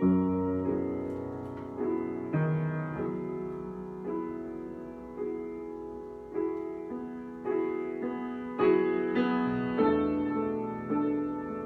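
Solo piano improvising slow chords, a new chord struck about once a second and left to ring and fade, a little louder near the end.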